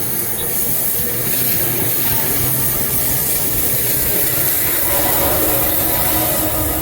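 Train passing close by: a loud, steady rush of wheel-on-rail noise with a low hum beneath.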